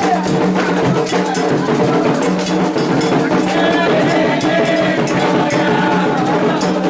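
Candomblé ritual music: hand drums and a struck bell keeping a steady rhythm, with voices singing a chant over them.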